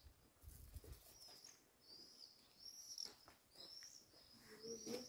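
Faint chirping of a small bird: a run of short, high, arched notes repeating about twice a second.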